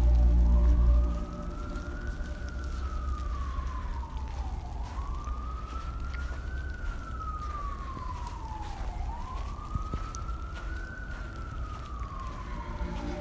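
Emergency vehicle siren in a slow wail, its pitch rising and falling about every four seconds, three times over. A loud low rumble stops about a second in.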